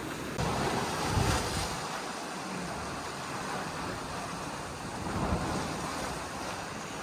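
Wind buffeting the microphone over a steady rush of surf, with gusts about a second in and again around five seconds in.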